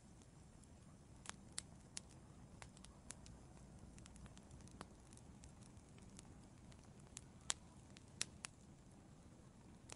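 Wood fire in an outdoor fireplace crackling: about ten scattered sharp pops over a faint, steady low hiss.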